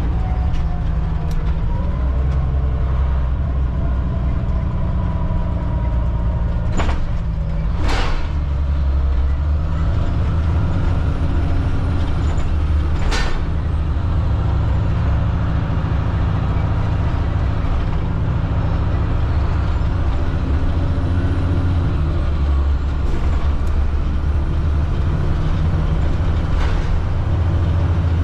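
The Cat C7 diesel engine of a 2005 Blue Bird All American FE school bus running steadily, heard from inside the bus while it drives. A few sharp clacks come in the first half.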